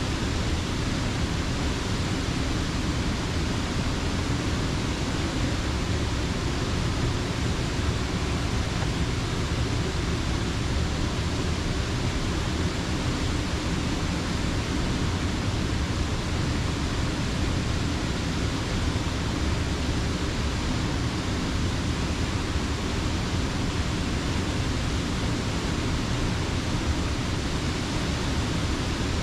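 Creek water pouring over a mill dam: a steady, unbroken rush with no single events standing out.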